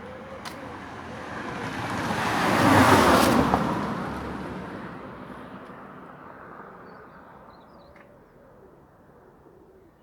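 A vehicle passing by: a steady rushing noise that swells to a peak about three seconds in and then fades away, with faint bird chirps near the end.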